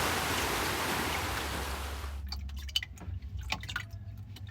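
Rushing water noise that fades away about two seconds in, followed by scattered water drips.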